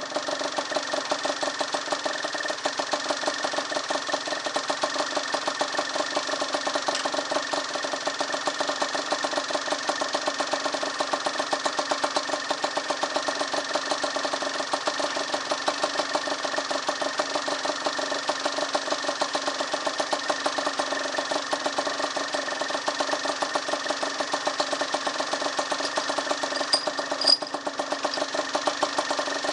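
Kawasaki KSR-II's small two-stroke single-cylinder engine idling steadily after a piston replacement, restarted once the gasket surfaces were cleaned to cure an abnormal noise. A brief sharp click comes near the end.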